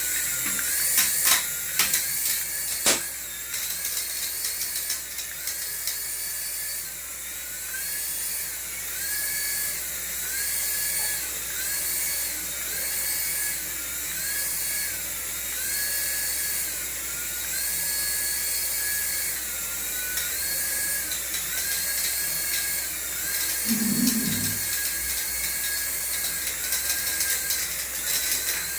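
Small electric motor of a remote-control toy whining at high speed, its pitch repeatedly rising to a plateau and dropping back as the throttle is pushed and released. A few sharp clicks come in the first few seconds and a short low thump near the end.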